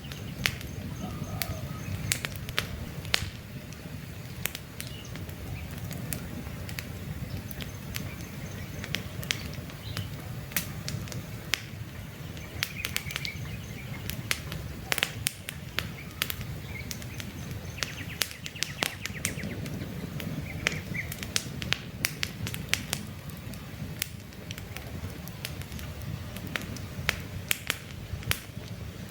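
Wood campfire crackling, with frequent sharp pops and snaps over a steady low rush of the flames. Faint bird chirps sound in the background now and then.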